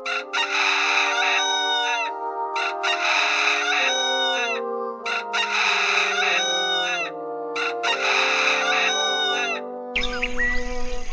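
Rooster crowing, five or six crows in quick succession, each ending in a falling note, over background music. The crowing stops near the end.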